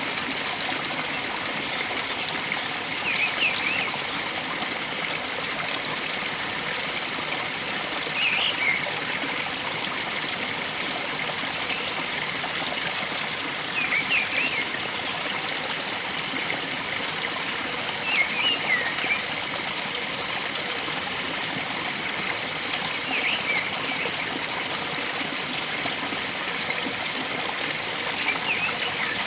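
Steady rush of flowing water, with a bird giving a short burst of quick chirpy notes about every five seconds, six times in all.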